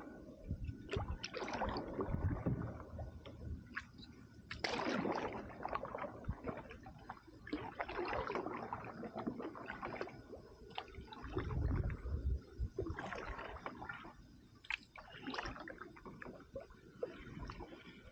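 Canoe paddle strokes in the river water: a splash and wash of water every two to three seconds.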